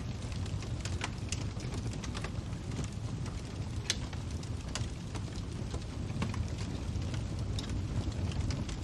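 Crackling fire: a steady low rumble with sharp pops at irregular moments, the loudest about four seconds in.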